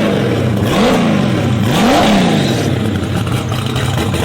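A car's combustion engine accelerating hard. Its note climbs and then drops sharply at each gear change, several times in the first two seconds, then holds a steady loud drone.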